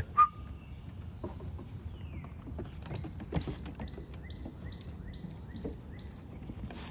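A small bird chirping a steady series of short, high notes, about three a second, over a low outdoor background rumble.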